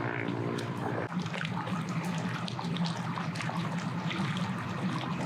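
Water splashing and lapping with many small trickling ticks, over a steady low engine rumble from boats on the water; a higher motor hum cuts off about a second in.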